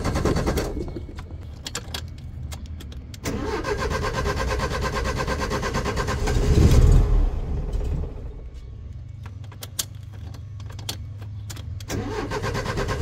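Old Ford car engine being cranked by its starter in several repeated bursts, with a louder swell about halfway through, without settling into a run: a hard start after weeks of standing unused.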